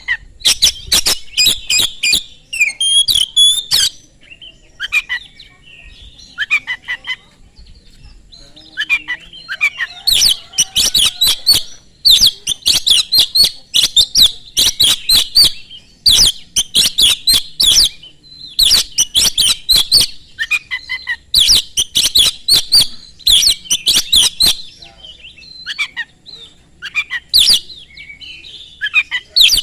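Oriental magpie-robin (kacer) singing vigorously in repeated bouts of fast, high, sharp notes, each a second to a few seconds long, with short pauses between them.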